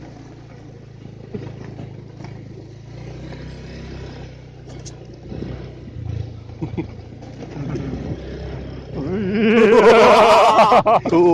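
Vehicle engine running steadily as a low hum. About nine seconds in, a much louder, wavering pitched sound sets in over it.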